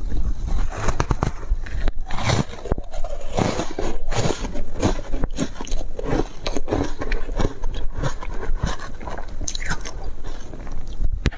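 Crunchy foam ice being bitten and chewed, a run of irregular crunches several a second.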